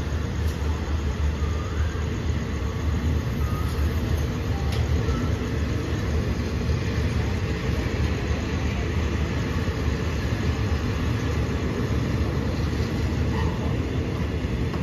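Passenger carriages of a departing express train rolling past along the rails: a steady low rumble that holds at one level throughout.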